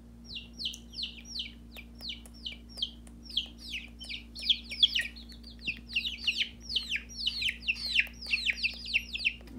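Baby chicks peeping: short high peeps that slide downward, a few a second at first, then denser and overlapping from about four seconds in as more chicks join.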